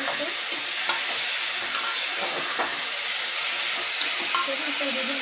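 Chickpeas and masala paste frying in oil in a pressure cooker, a steady sizzle, with a metal spoon stirring and scraping against the pot. The masala is being roasted until done.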